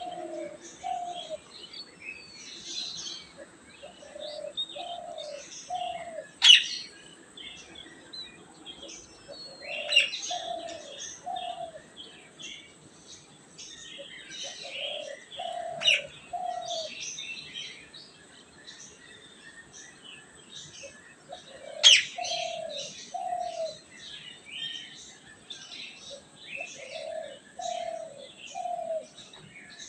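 Small birds chirping and twittering without a break, with a dove cooing in short phrases of two or three notes repeated every few seconds. A few sharp, louder calls stand out, about six, ten, sixteen and twenty-two seconds in.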